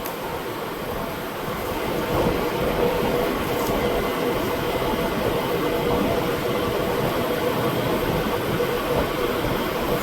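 Large shop fan blowing steadily, a rushing noise with a faint motor hum in it, a little louder from about two seconds in.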